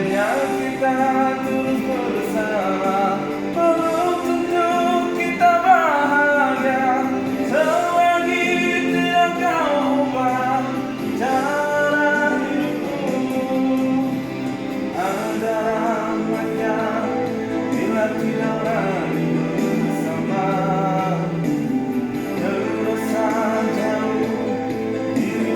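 A pop-rock ballad: one voice sings a slow melody, holding long wavering notes, over sustained instrumental backing.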